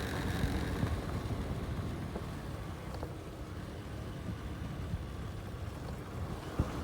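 Motorcycle running with a steady low rumble, a little louder for the first second or so and then easing.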